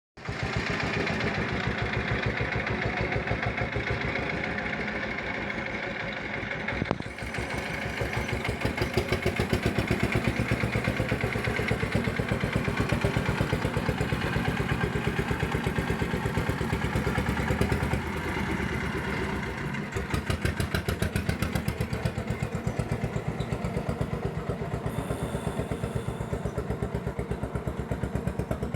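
Engine of a water-carrying vehicle running with a steady, evenly pulsing beat. It gets louder about seven seconds in and eases off briefly near twenty seconds.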